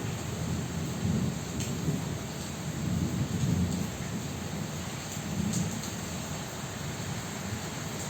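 Heavy rain falling steadily, with strong wind gusting in low rumbling swells that come and go every second or two.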